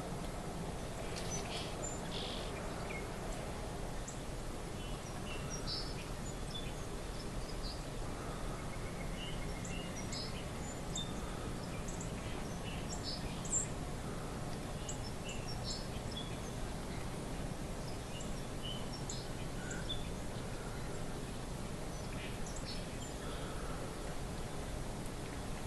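Small birds chirping here and there: short, high calls scattered throughout, over a steady low background rumble. One sharper chirp stands out about halfway through.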